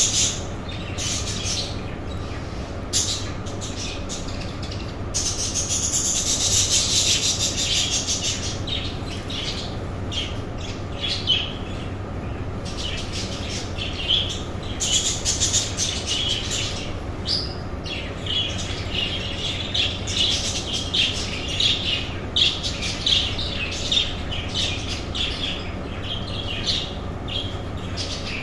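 A colony of budgerigars chattering, with many quick high chirps and squawks overlapping and a louder, noisier stretch of chatter a few seconds in, over a faint steady low hum.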